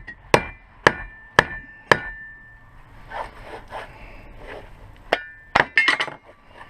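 Hammer blows on steel: four ringing strikes about half a second apart, then a quieter rattle and a quick run of strikes near the end, as the front wheel bearing is driven out of the hub.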